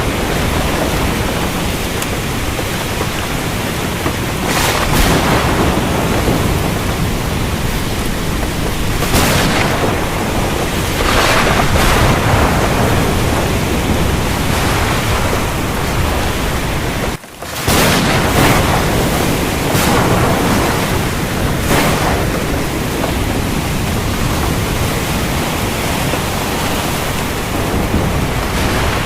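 Heavy rain falling steadily with rolling thunder, in dense, even noise that swells briefly every few seconds. The sound drops out for a split second just past halfway.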